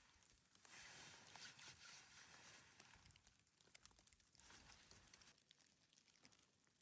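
Near silence, with faint rustling and scattered small ticks, a little stronger about a second in.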